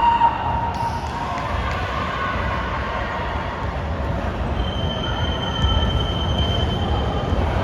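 Indoor basketball game sounds: sneakers squeaking on the court over the steady rumble of the gym, with a thin, high squeal holding for the last few seconds.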